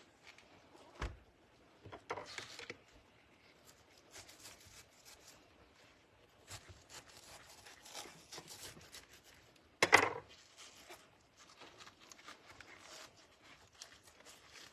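Crinkly rustling and tearing of thawed, previously frozen cabbage leaves being peeled apart by hand, with a dull knock about a second in and a louder sharp knock near ten seconds.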